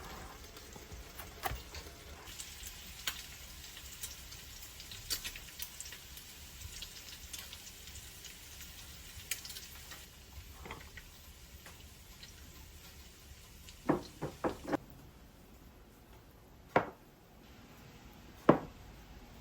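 Food frying quietly in a pan, a faint sizzle dotted with small crackles, then a few sharp knocks of kitchenware in the second half, three close together and two single ones near the end.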